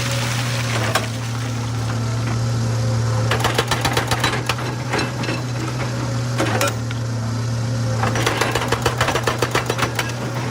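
Excavator diesel engine running steadily, with two spells of rapid clattering knocks, rock against rock or steel, lasting about two seconds each, one a third of the way in and one near the end.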